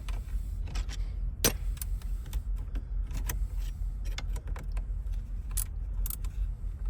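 Irregular metallic clicks and clinks of hand tools and small steering-column parts being worked loose while the ignition is removed from a 1993 GMC Yukon, the loudest click about a second and a half in. A steady low rumble runs underneath.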